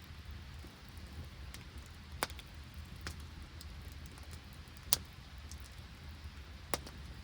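Open wood campfire crackling with a few sharp pops, the loudest about five seconds in, over a steady low rumble.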